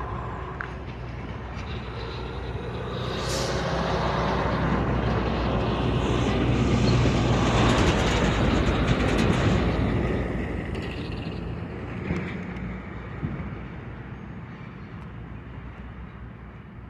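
Wisconsin Southern diesel freight train rolling past: a low engine hum and the noise of rolling wheels grow louder, peak about halfway through, then fade away, with two sharp clanks near the end.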